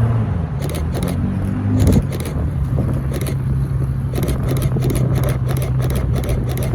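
A car engine running close by, swelling briefly about two seconds in and then holding a steady low note, with a run of short sharp clicks over it.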